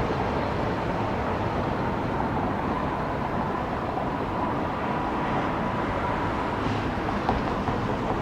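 Jet airliner engines at takeoff power on the takeoff roll: a steady, even noise with a faint steady whine.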